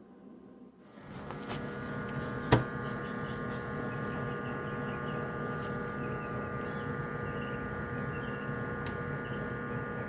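Electric heat gun switched on, its fan motor starting about a second in and then running with a steady hum, used to heat gun parts during bluing. A sharp click comes a moment after it starts.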